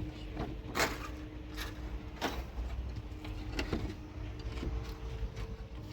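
A few sharp knocks and clicks, the loudest about a second in, over a steady low rumble and a faint steady hum.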